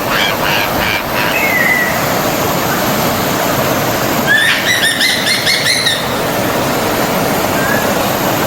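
Stream water flowing steadily, with birds calling over it: a few short chirps in the first couple of seconds, then a quick run of chirps about halfway through.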